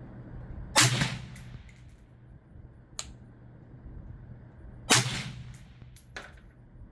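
Two suppressed 5.56 rifle shots about four seconds apart, fired through a B&T VERS36 titanium suppressor. Each has a short ringing tail and a few light clicks after it. A single sharp click falls between them.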